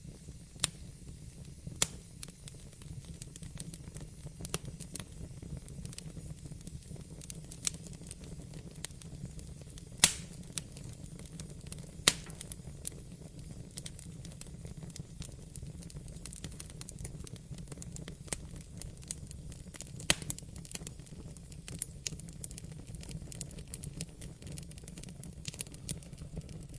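Wood fire crackling in a fireplace: irregular sharp pops and snaps over a steady low rumble of the flames, with a few louder pops standing out, the loudest about ten seconds in.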